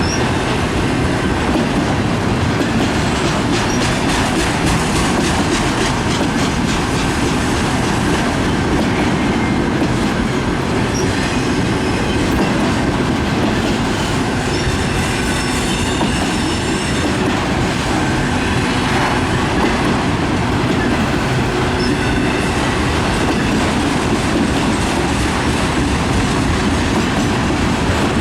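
CN freight train cars rolling past at track side: a steady loud rumble with wheel clatter over the rail joints, and a faint high wheel squeal around the middle.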